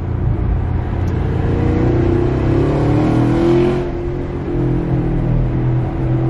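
Car engine running under way, its pitch climbing about two seconds in as it speeds up, then holding steady over a low rumble.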